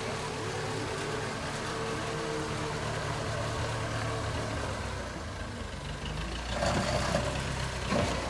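Diesel engine of a JCB 3CX backhoe loader running steadily, getting louder and rougher for a moment about two-thirds of the way through. A single sharp knock comes near the end.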